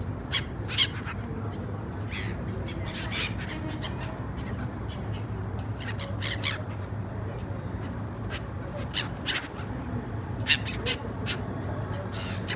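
A flock of gulls calling: many short, overlapping cries, the loudest near the start and about ten seconds in, over a steady low hum.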